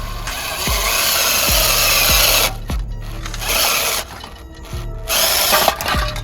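A small power tool working material in bursts, one long run, then shorter ones stopping and starting, over background music with a steady beat.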